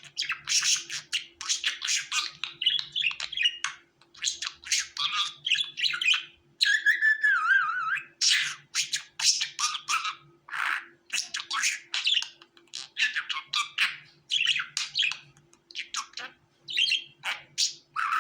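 Budgerigars chirping and warbling in quick, overlapping calls with short squawks, like a flock chattering.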